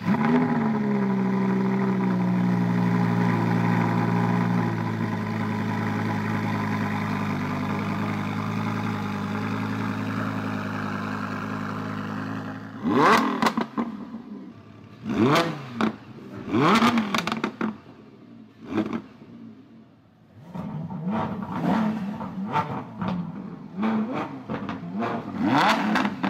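Car engine with a performance exhaust starting up and idling steadily, then revved in four sharp blips about thirteen seconds in, followed by quick, uneven throttle stabs.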